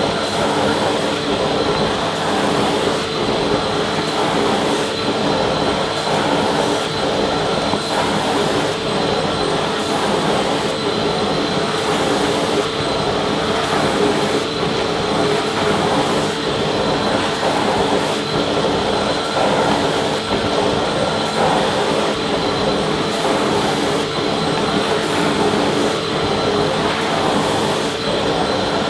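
Vacuum cleaner running steadily, a constant rushing motor noise with a held whine.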